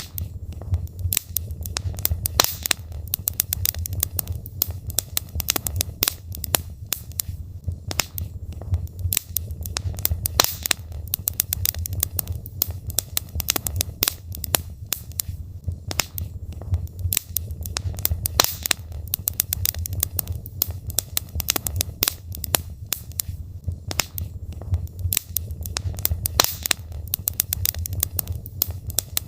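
Wood logs burning in a fireplace, crackling and popping irregularly many times a second over a steady low rumble of the fire.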